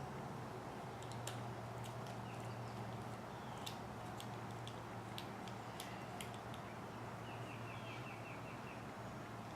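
Light scattered clicks of a small screwdriver and tiny screws being worked into an RC truck's spur gear hub, with a short run of rapid ticking about seven seconds in, over a steady low hum.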